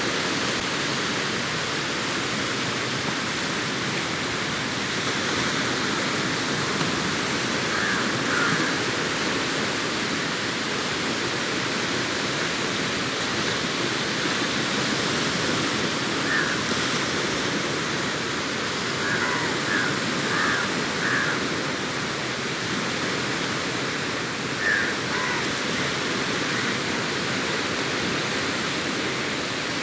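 Sea surf washing onto a beach: a steady, even rush of breaking waves. A few brief, faint higher sounds come through now and then.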